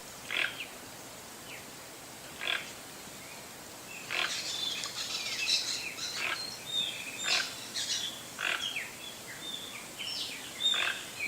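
Toucan calling: a harsh, croaking call repeated every second or two, growing more frequent about four seconds in, with shorter chirps and whistles between the calls over a steady background hiss.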